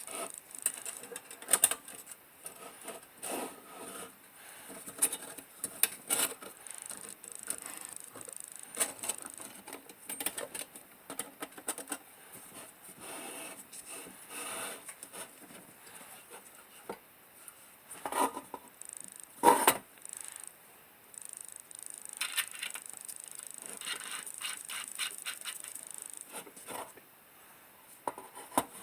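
Small sheet-metal lantern parts being handled and fitted: a run of light clicks, taps and scrapes, with two louder, briefly ringing metal clinks a little past the middle.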